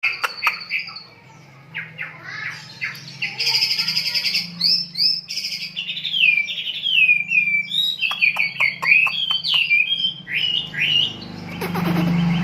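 Lovebird singing a long, fast volley of chirps, buzzy trills, clicks and repeated downward-sliding whistled notes, the 'tembakan' bursts prized in Indonesian songbird keeping.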